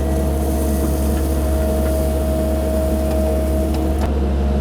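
CAT 308 mini excavator's diesel engine running steadily, a deep drone with a steady higher whine over it. A hiss on top drops away about four seconds in.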